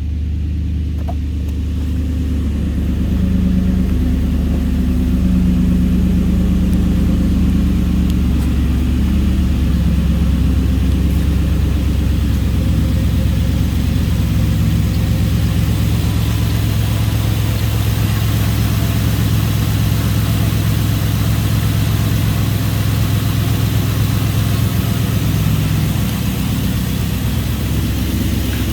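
2005 Toyota Tundra's 4.7-litre V8 engine idling steadily.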